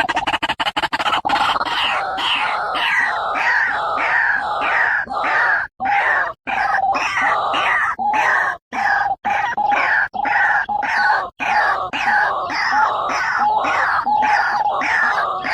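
White-breasted waterhen (ruak-ruak) giving its loud, harsh repeated calls, about two a second, with brief breaks. This is the lure call used to draw the birds in for trapping.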